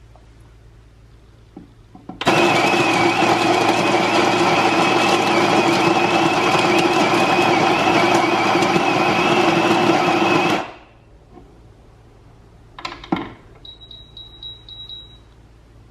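Edison 180 W electric coffee grinder motor running for about eight seconds, starting abruptly and then winding down. A click follows, then a quick run of short high-pitched beeps.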